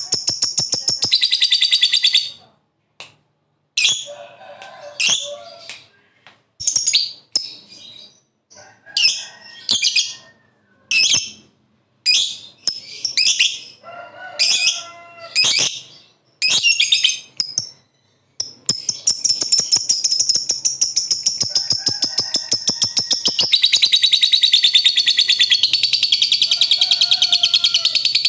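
Lovebird singing its 'ngekek': high-pitched, very rapid chattering trills, first in about a dozen short bursts with brief gaps, then a long unbroken run from about two-thirds of the way in.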